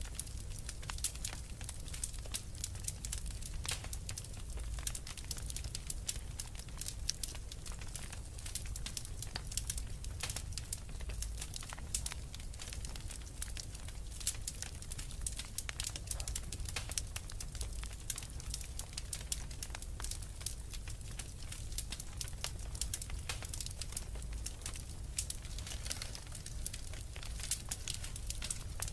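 Wood fire burning in a fireplace: a dense, irregular crackle of many small sharp pops over a steady low rumble of the flames.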